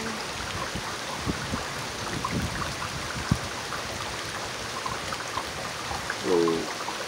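Steady heavy rain falling through a thunderstorm, with many small drop ticks on nearby surfaces. A sharp single click comes about three seconds in, and a brief low pitched sound near the end.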